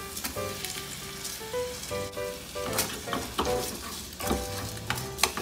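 Onion, bacon and freshly added rice sizzling in an aluminium mess tin over a low gas flame as they are stir-fried together with chopsticks. A few sharp clicks sound through it as the chopsticks knock the tin.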